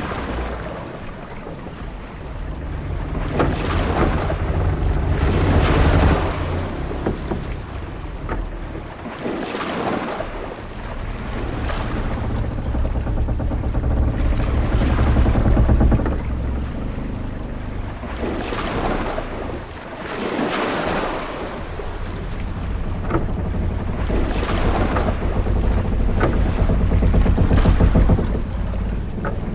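Ship-at-sea ambience: waves washing against a ship's hull in slow swells that rise and fall every four to six seconds, over a steady low rumble of wind.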